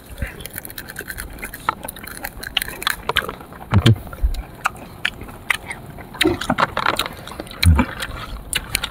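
Close-up eating of sour fruit: wet chewing and crunching, with many quick mouth clicks and smacks. There are two short, louder low sounds about four seconds in and again near the end.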